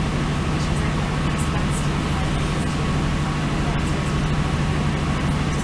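Steady running noise of an NI Railways diesel passenger train heard from inside the carriage: a constant low engine drone over the rumble and hiss of the wheels on the track.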